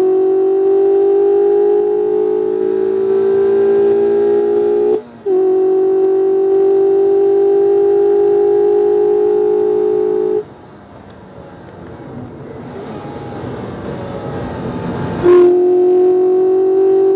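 2019 Mazda MX-5 RF's 2.0-litre four-cylinder engine heard from inside the cabin, held at high revs on track, its note climbing slowly with a brief break about five seconds in. About ten seconds in the engine note drops away and a rough rushing noise grows. The note comes back with a click about fifteen seconds in.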